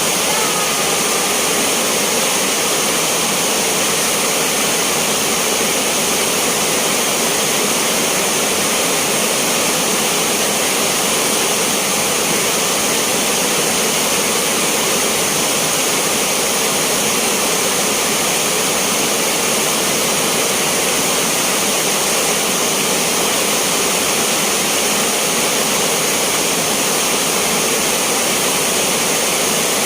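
Heavy rain pouring down close to the microphone, a loud, steady hiss that does not let up.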